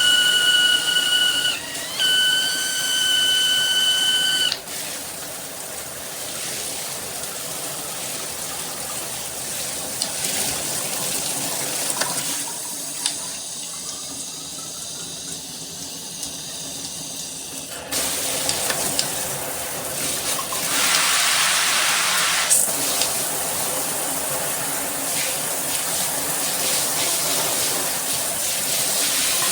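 Water spraying from a handheld high-pressure shower head, a steady hiss of spray. For the first few seconds a high, steady whistle rides on the flow, breaks briefly, then stops. The spray goes quieter and duller for several seconds in the middle, then comes back fuller.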